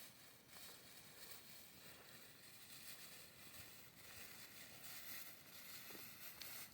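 Near silence: faint steady hiss of outdoor ambience with a few soft small ticks.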